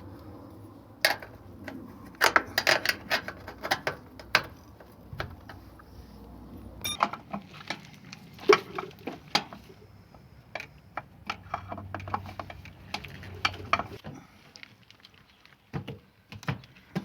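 Irregular sharp metallic clicks, clinks and knocks of screws, nuts and a screwdriver being handled while a front-loading washing machine's door and lock are refitted. Some come in quick runs and some come singly, with a quieter gap near the end.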